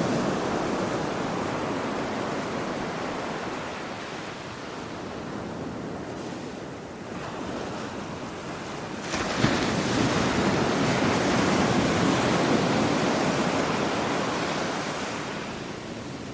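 Ocean waves breaking on a shore: one wash of surf slowly dies away, then a new wave crashes in sharply about nine seconds in and gradually recedes.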